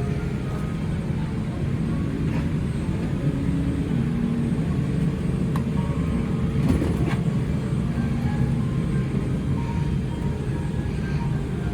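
Boeing 787-8 airliner cabin at the gate during boarding: a steady low hum of air conditioning, with faint boarding music and a couple of sharp knocks around the middle.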